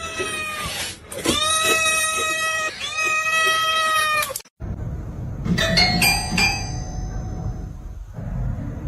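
A cat yowling in three long, drawn-out meows, each about a second and a half. After a sudden cut, a low rumbling background follows, with a few brief high ringing tones about a second later.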